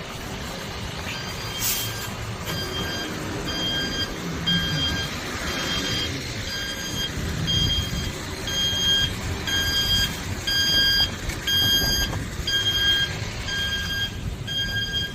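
Electronic beeper sounding short, high beeps over and over, about two a second, over a steady low rumble.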